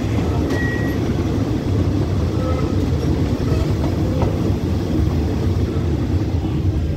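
Passenger coaches of a State Railway of Thailand express train running along the track, heard from an open coach window: a steady low rumble of wheels on rails. A brief faint high tone sounds about half a second in, and a faint click about four seconds in.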